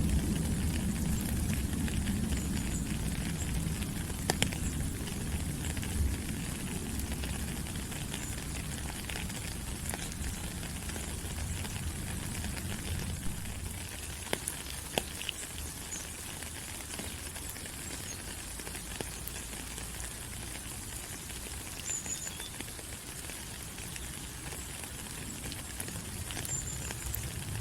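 Steady rain falling on rainforest foliage, an even hiss with scattered ticks of single drops. A low rumble underneath fades away by about halfway.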